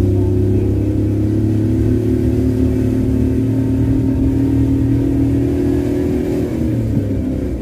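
Car engine pulling hard in first gear up a steep hill road, heard from inside the cabin. The engine note holds high and creeps slowly upward, then eases off about six and a half seconds in.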